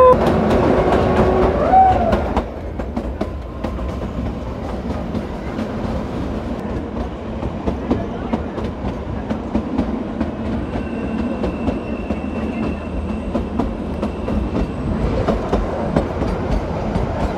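Narrow-gauge Kalka–Shimla toy train running on the line, a steady rumble with frequent clicks of the wheels over the rail joints. It is louder for the first couple of seconds, while the coach is inside a tunnel, with a few short wavering tones at the very start. A faint high steady tone comes in for a few seconds around the middle.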